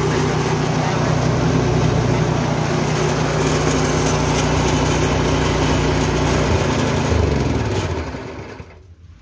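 Richi KD 350 grinding mill driven by a 7 HP petrol engine, running steadily, then slowing with a falling pitch about seven seconds in and dying away near the end. The engine has run out of petrol.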